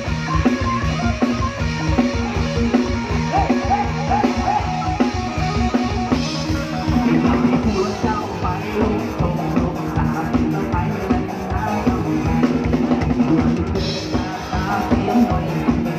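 Live band playing an instrumental passage, with the drum kit keeping a fast, steady beat.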